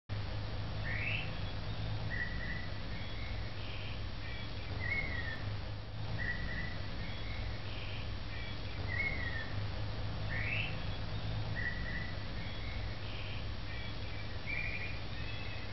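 Birds calling: short chirps and rising and falling whistled notes, recurring in much the same order every few seconds, over a steady low hum.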